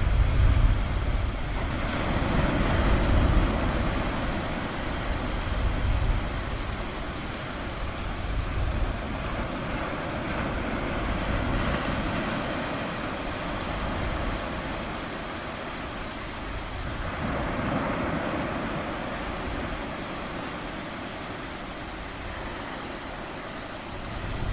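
Ocean surf washing in and receding in slow swells every several seconds, with a low rumble near the start.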